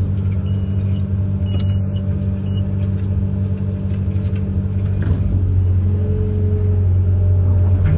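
Amphibious excavator's diesel engine running steadily, with a short high beep about one and a half seconds in and a knock about five seconds in.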